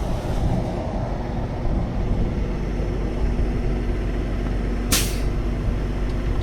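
Truck engine running steadily with a low rumble, and a short sharp hiss about five seconds in.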